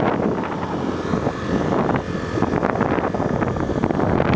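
Wind buffeting the microphone over a Honda XR250 Tornado motorcycle's single-cylinder engine running steadily at riding speed.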